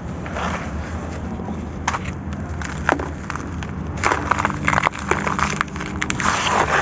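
Dry grey sand-cement chunks being crumbled: gritty crunching and crackling, sparse at first, then a dense run of crackles from about four seconds in.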